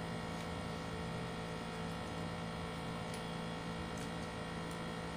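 Steady electrical hum with faint background hiss: room tone, with only a few faint ticks.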